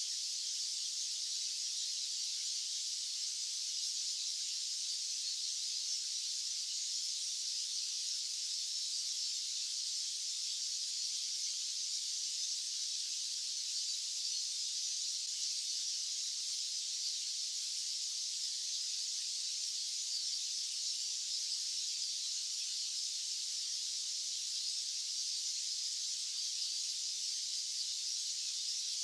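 Steady white-noise hiss, high-pitched and thin with no low end, holding an even level throughout with no change or events.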